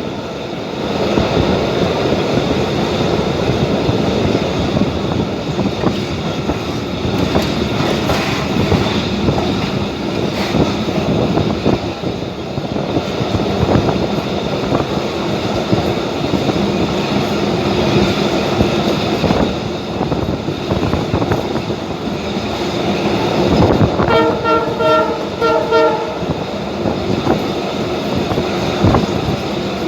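Commuter train running, heard from aboard: a steady rumble with the clatter of the wheels on the track. The train's horn sounds for about two seconds near the end.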